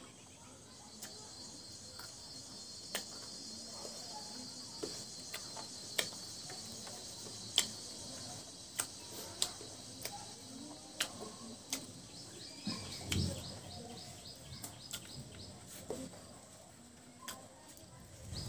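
Close-up mouth sounds of eating rice and curry by hand: wet chewing and lip smacks, heard as sharp irregular clicks. Behind them an insect keeps up a high, steady trill, which gives way a little past the middle to a run of quick chirps.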